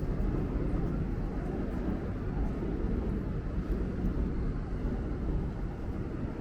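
Steady low rumble of city street traffic, an even background with no distinct passing events.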